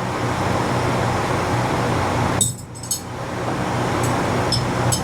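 Light metallic clinks of hand tools against metal as the ATV shock bolts are worked on: a short cluster about two and a half seconds in and a few more near the end. Under them runs a steady hiss with a low hum.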